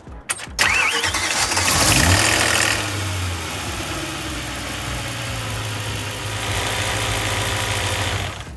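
BMW E92 M3's S65 V8 being started: the starter cranks, the engine catches and the revs flare briefly, then settle to a steady idle before it is switched off at the end. This is the first start with the new underdrive pulleys and drive belts fitted.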